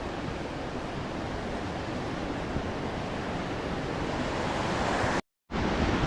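Steady rush of flowing water from a jungle stream and waterfalls, cut off by a moment of dead silence about five seconds in before it resumes.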